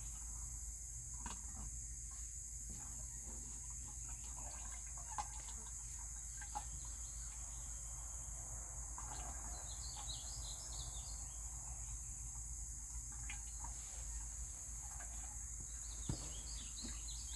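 Outdoor ambience: a steady insect drone with birds chirping, once around the middle and again near the end, and a few faint clicks.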